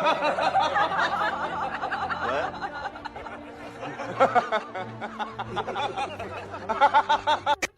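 A person laughing in repeated bursts, with a quick run of laughs near the end before the sound cuts off abruptly.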